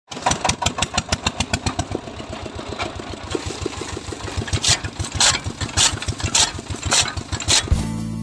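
An engine running with a fast, even chugging, joined in its second half by a sharp click about every half second. Music comes in near the end.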